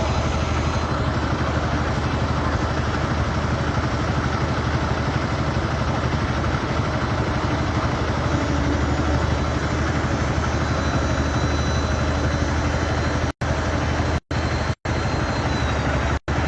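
Steady low rumbling noise that cuts out abruptly for split seconds four times near the end.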